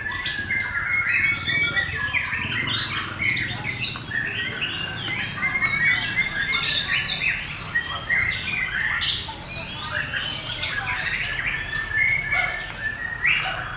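Several white-rumped shamas (murai batu) singing at once: a dense, unbroken stream of overlapping whistles, chirps and quick rising and falling notes.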